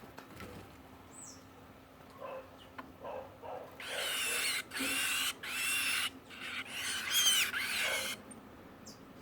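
A bird giving a run of about five loud, harsh, raspy calls, each under a second long, after a few softer calls.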